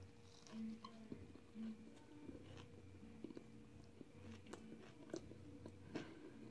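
Faint chewing of a mouthful of crunchy chips with the mouth closed, with scattered small crunches.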